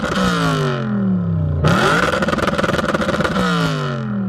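Supercar engine revved hard. The revs are falling away at the start, shoot up sharply again about a second and a half in, then drop off slowly toward idle.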